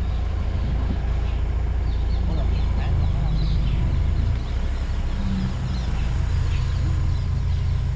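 Vehicle engine running with a steady low rumble, and faint short bird chirps over it.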